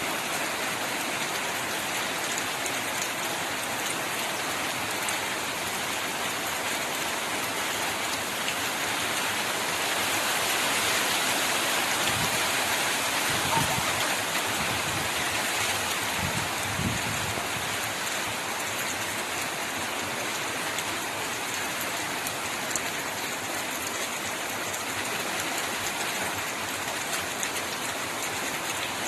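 Water spraying or showering steadily with a rain-like hiss as a bird is bathed, a little heavier about a third of the way in.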